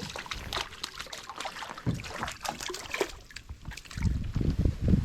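Irregular splashing and knocking as a hooked shellcracker (redear sunfish) is brought up to a small boat in the rain, with a low wind rumble on the microphone from about four seconds in.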